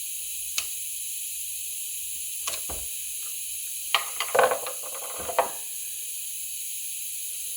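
Handling noises from prying a chainsaw's fuel tank vent tube loose: a few sharp clicks, then a flurry of clicking and scraping about four to five and a half seconds in, over a steady hiss.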